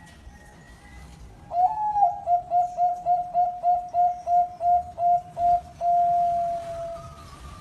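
Zebra dove (perkutut) singing. It starts with an opening note, then gives a quick, even run of about a dozen short cooing notes, and ends with one long, slightly falling note.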